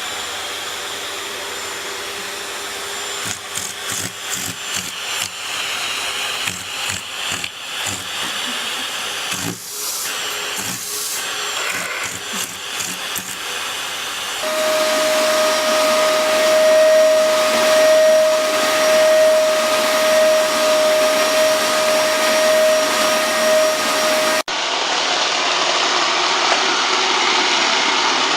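Vacuum cleaner motor running steadily, with scattered knocks and clicks in the first part. About halfway through, the sound switches to a louder vacuum with a strong steady whine. It changes again near the end.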